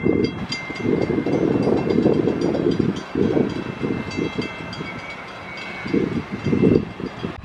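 A train running past: a heavy, uneven rumble that comes in surges, with thin high squealing tones above it. The sound drops off suddenly at the very end.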